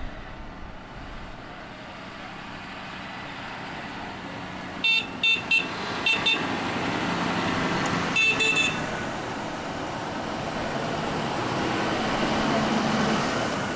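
Vehicle horns tooting in short blasts: a run of quick toots about five seconds in and a brief cluster near eight seconds. Underneath is the steady engine and road noise of passing tractors, growing louder near the end.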